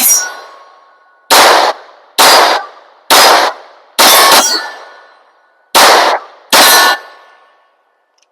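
Six 9mm pistol shots from a P80 Glock 19 build, fired about a second apart with a short pause before the last two, each followed by a ringing tone as it dies away.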